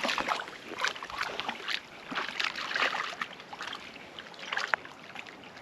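Water splashing and sloshing in irregular bursts as a dog paddles through a pond, dying down near the end.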